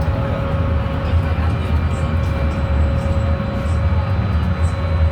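Wrightbus GB Kite Electroliner electric bus heard from inside while moving: a steady low rumble with a steady whining hum over it, the cooling-fan 'hoover' noise this bus is known for.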